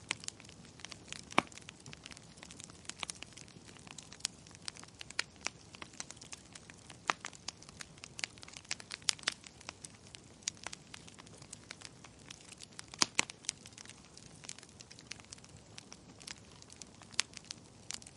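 Wood fire crackling: irregular sharp pops and snaps over a faint steady hiss, a few louder pops standing out.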